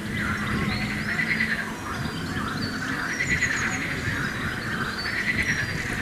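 Several birds singing and chirping at once: short high chirps over a continuous, pulsing layer of bird calls.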